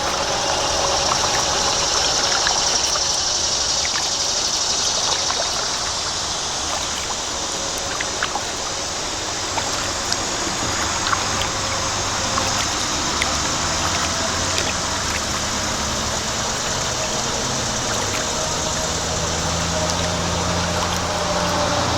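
Water trickling and dripping off a kayak paddle as it strokes, over a steady hum of road traffic that grows stronger in the second half.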